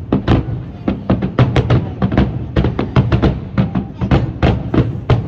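Fireworks finale barrage: a rapid, irregular run of loud bangs and booms, about four or five a second, overlapping with deep rumbling.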